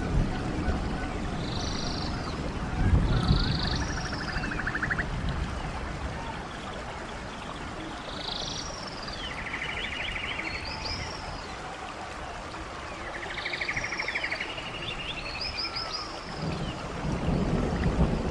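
Nature soundscape of running water as a steady rush, under many short repeated animal calls, some arching chirps and some rapid trills. Low rumbles come about three seconds in and again near the end.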